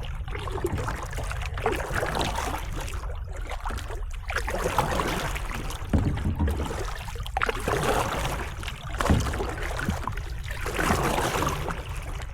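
Canoe paddle strokes swishing through lake water, one splashy stroke about every one and a half to two seconds, over a steady low rumble.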